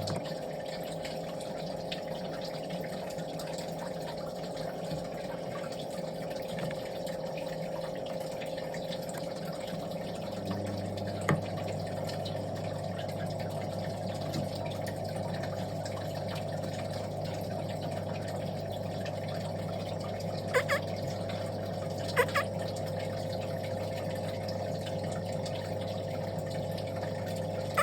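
Steady hum of a small electric motor, with a lower note joining about ten seconds in. Brief bird calls break in twice, about 20 and 22 seconds in.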